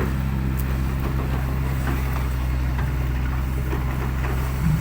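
Heavy diesel engine running steadily at idle: a low, even drone.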